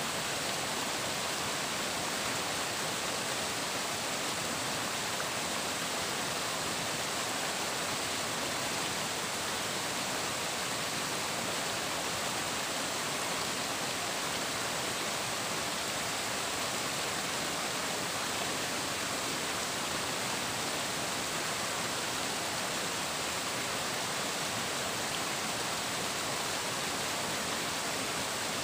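Flowing water rushing steadily, an even, unbroken hiss with no splashes or changes.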